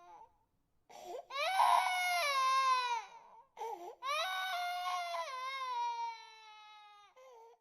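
Infant crying: two long wails, each falling in pitch, separated by short gasping catches of breath, with a weaker cry near the end.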